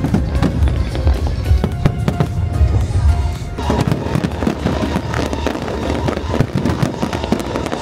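Fireworks and firecrackers going off in a dense string of bangs and crackles, heaviest through the first half, with music playing underneath.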